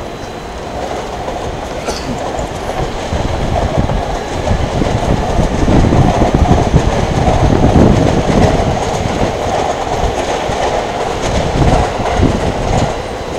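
A train running past on the tracks. It grows louder to a peak around the middle, then eases off.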